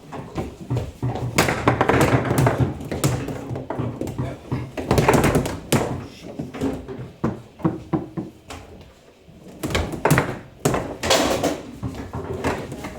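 Table football in play: irregular sharp knocks and clacks as the ball is struck by the player figures and bangs against the table walls.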